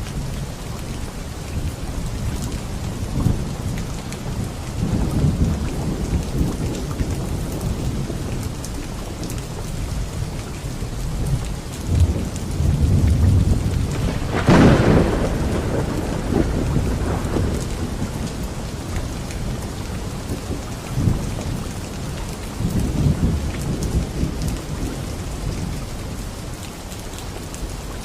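Steady heavy rain falling, with low rolls of thunder throughout. A louder, sharper thunderclap comes about halfway through.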